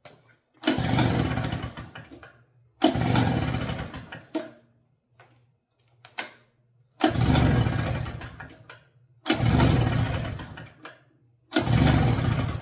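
Gas leaf blower being pull-started five times, each pull a short burst of engine noise that dies away without the engine staying running.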